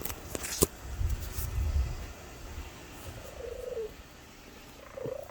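Domestic cat purring close to a phone's microphone, with a few handling knocks in the first second and a short wavering call from the cat about three seconds in and again at the end.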